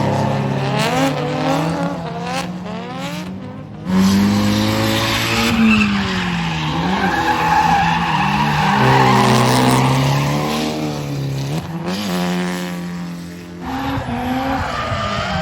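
A drift car's engine revving hard, its pitch sweeping up and down again and again, over steady tyre squeal as the car slides. About four seconds in the sound drops briefly, then comes back suddenly loud.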